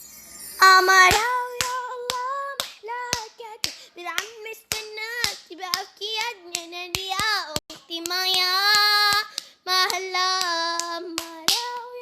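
A child singing a melody in long, held notes over a regular beat of hand claps, about two to three claps a second.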